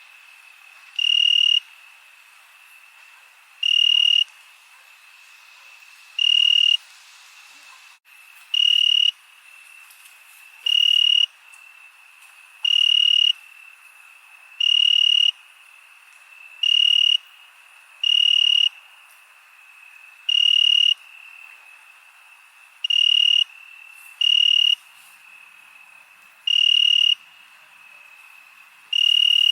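Crickets chirping at night: a loud cricket gives short half-second bursts of trilling about every two seconds over a fainter, unbroken high trill from other crickets.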